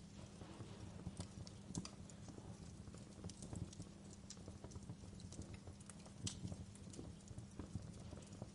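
Wood fire crackling in a fireplace: irregular sharp snaps and pops, some louder than others, over a low steady rumble.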